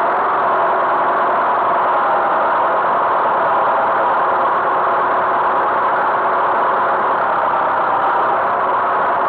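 Tractor engine running at a steady speed, its note unchanging throughout.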